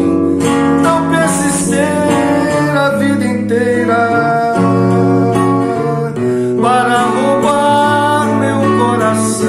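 Acoustic guitar playing a song, with a voice carrying a melody over it twice, in the first few seconds and again later on.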